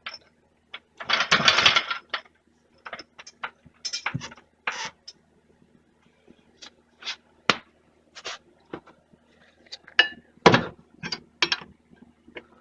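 Metal tools and car parts being handled: a dense rattle lasting about a second near the start, then a scatter of sharp clicks, clinks and knocks at irregular spacing.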